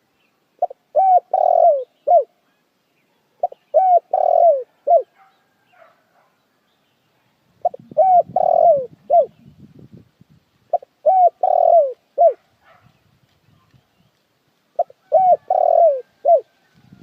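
Puter dekukur dove cooing, five phrases roughly every three to four seconds, each a quick run of four or five short coos with the middle ones longer and falling in pitch.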